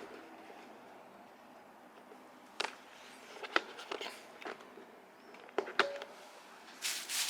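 Parts of a flat-packed clothes hanger rack being handled: a few scattered light knocks and clicks, with louder rustling starting near the end.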